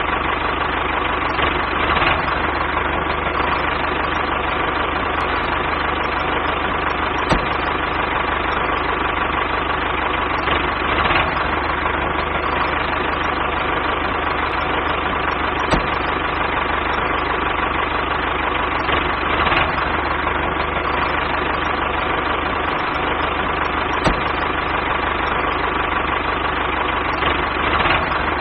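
Small electric gear motor running steadily, with a constant whine and a few sharp clicks.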